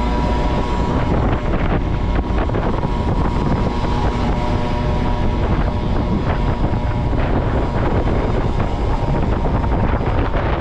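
Motorcycle engine running on the move, with steady wind rush on the microphone over it.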